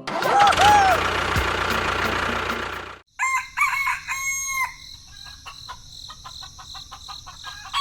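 A rooster crowing over a loud, noisy background that cuts off abruptly about three seconds in, followed by a few short pitched calls and a steady high insect-like chirr with ticking.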